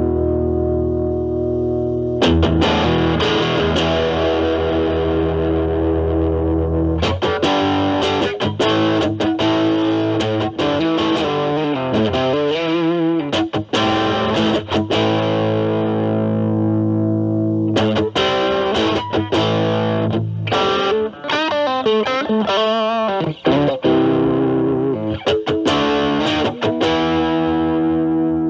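Electric guitar, a Stratocaster with Alnico single-coil pickups, played through an Ibanez Super Metal mini (SM-9) distortion pedal at a low drive setting into the clean channel of a Marshall Valvestate amp: lightly distorted chords struck and left ringing, with notes wavering in pitch near the middle and again past the two-thirds mark.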